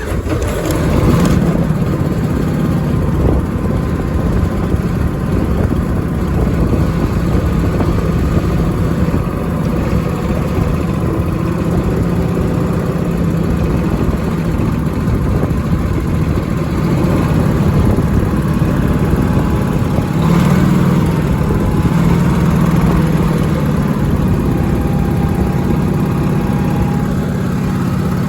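Honda HT3810 lawn tractor engine running steadily right after a cold start, with a brief rise in speed about twenty seconds in.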